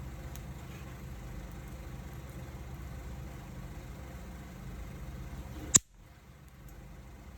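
Wood fire burning on a fire disc: a steady low rumble of the flames with a few faint crackles. One sharp, loud pop comes near the end, after which the rumble drops off for a moment.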